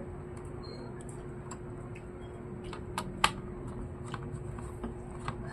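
Scattered small clicks and taps of hands and a tool working on a laptop's internal parts, the loudest pair about three seconds in, over a steady low hum.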